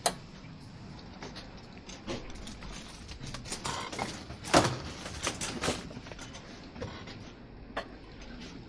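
Supermarket ambience: a steady low background with scattered clicks and knocks of goods, carts and shelving, the loudest a sharp knock about halfway through.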